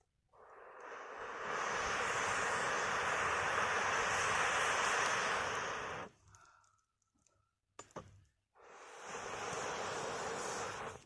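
Air blown through a fire-blowing pipe into the fire, making two long, steady whooshes: the first lasts about five seconds and the second, near the end, is shorter. A faint crackle and a few clicks from the fire come between them.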